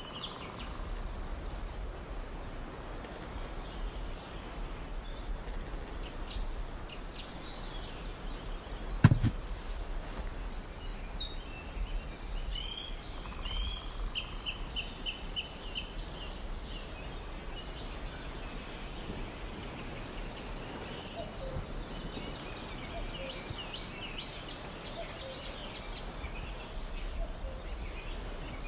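Small birds chirping on and off, with a quick run of repeated notes midway, over a steady low rumble of background noise. One sharp knock about nine seconds in.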